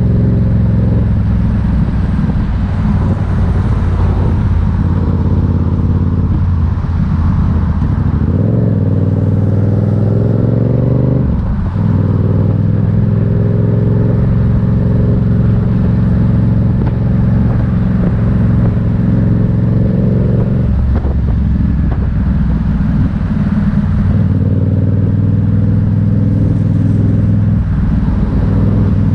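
Motorcycle engine running under way, loud and steady. Its pitch climbs from about eight seconds in, then drops suddenly near the twelve-second mark, as at a gear change; it shifts again about twenty-one and twenty-four seconds in.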